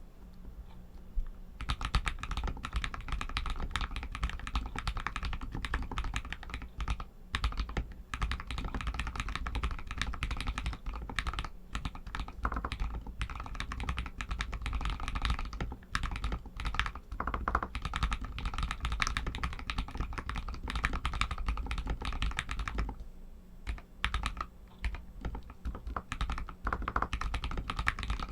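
Continuous fast typing on a Royal Kludge RK61 60% mechanical keyboard with Outemu Red linear switches: a dense stream of keystroke clacks that starts about a second and a half in, with a few brief pauses and a short lull a few seconds before the end.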